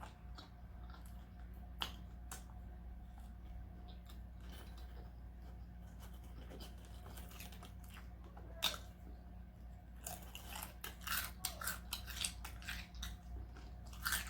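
A person chewing food close to the microphone, with soft clicks and crisp crunches that get busier about ten seconds in, over a faint steady hum.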